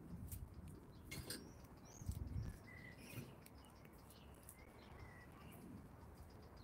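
Faint bird chirps: a few short, thin calls, with a low rumble about two seconds in.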